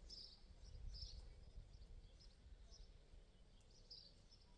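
Faint birdsong: short high chirps, several in a row, over a faint low rumble.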